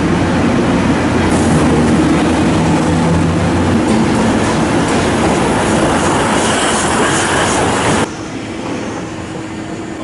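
A passenger train hauled by an electric locomotive rolls slowly past close by, its wheels clattering on the rails, with a steady low hum in the first few seconds and some wheel squeal later on. The sound drops sharply about eight seconds in.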